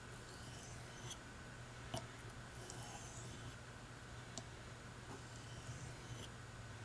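Faint strokes of a knife blade drawn lightly across a hard Arkansas sharpening stone, soft swishes with a few small clicks between them, as the edge is honed to a polish.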